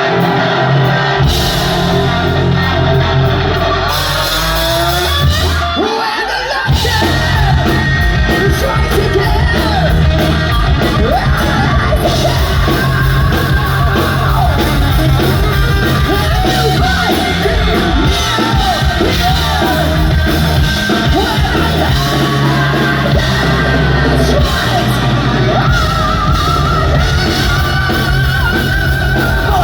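Hard rock band playing live: distorted electric guitar, bass and drums with a singer's voice. The full drum beat comes in about six seconds in after a short dip.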